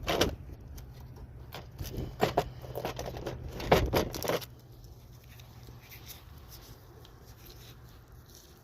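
Irregular clicks, knocks and scrapes of tools and parts being handled during a tire repair, over a low steady hum. The handling noise stops about four and a half seconds in, leaving only the faint hum.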